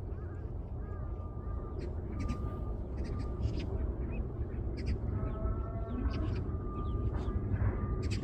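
Wild birds calling: a scatter of short sharp calls and a longer harsh call about five seconds in, over a steady low rumble of wind on the microphone.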